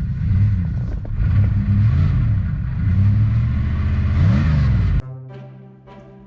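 1997 Jeep Grand Cherokee's 318 V8 running rough, its revs rising and falling several times as the throttle is worked, because it stalls whenever the gas is let off after months of sitting on a low battery. About five seconds in it cuts off suddenly and music takes over.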